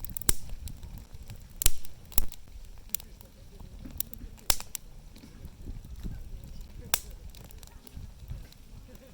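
Wood fire crackling, with sharp irregular pops about once a second over a low rumble.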